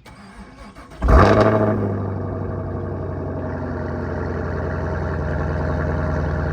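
2020 Camaro SS 1LE's V8, breathing through a Borla ATAK axle-back exhaust, starting up. It turns over briefly, fires with a loud flare about a second in, then settles into a steady idle.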